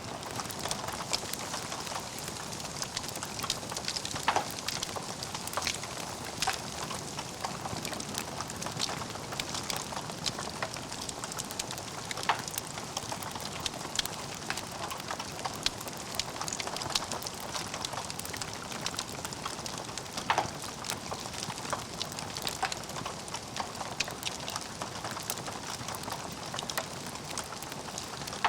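Wood fire in a fireplace burning steadily, with a soft hiss and constant small crackles, and a few louder pops, the strongest about 4 and 20 seconds in.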